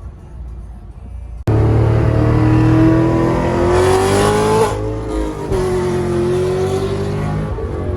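Car engine at full throttle in a hard pull. Its pitch climbs steadily, drops at a gear shift about halfway through, then climbs again. The loud run cuts in abruptly about a second and a half in, after a quieter low rumble.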